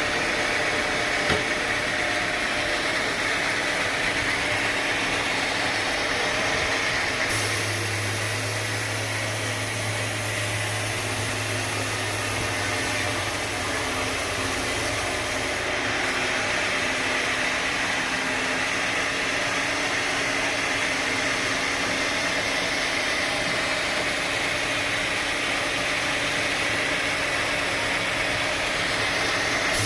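Sawmill machinery running steadily, a continuous mechanical hum and hiss that changes abruptly about 7 and 16 seconds in.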